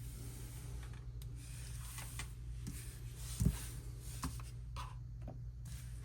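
Paper photo cards and album inserts being handled: light rustles and small taps, with one soft thump about three and a half seconds in, over a steady low hum.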